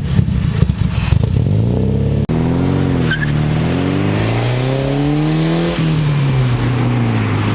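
Nissan 240SX (S13) engine through its loose, tape-and-cable-hung exhaust. It first runs steadily with a rapid rattle in the sound. After an abrupt cut, the car pulls away, revving up through a gear, shifts about six seconds in, and then eases off with the pitch slowly falling.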